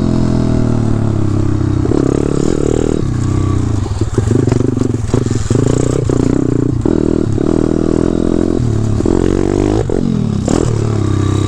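A 190cc pit bike's single-cylinder four-stroke engine under way, the throttle opened and shut again and again so its pitch climbs and drops every second or so, with wind rumble over the microphone.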